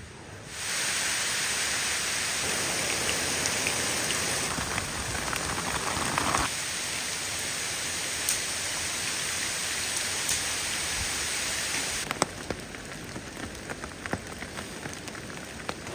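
Rain falling on a camping tarp: a dense, steady hiss that starts about half a second in, then drops about twelve seconds in to lighter rain with separate drops ticking.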